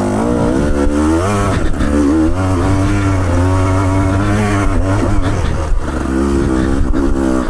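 Off-road motorcycle engine running under load, its revs rising and falling again and again.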